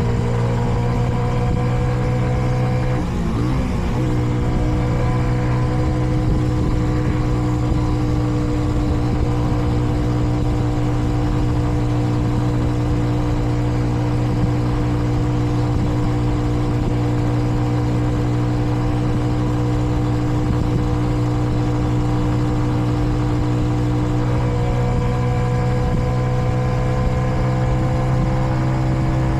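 Kreidler Dice CR 125's single-cylinder four-stroke engine running steadily under way at a gentle cruise, held back because it is still being run in, with wind rumble on the microphone. There is a brief dip about three seconds in, and the pitch rises slightly near the end.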